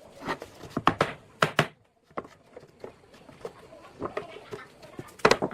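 Sharp knocks in a small room: a quick pair about a second in, another pair just after, then lighter ticks and one more hard knock near the end.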